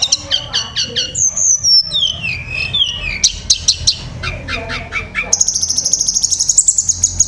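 Tledekan gunung (sulingan) songbird singing a varied, continuous song. Quick repeated notes run into sweet whistles that slide down in pitch. From about five seconds in it holds one long, high trill.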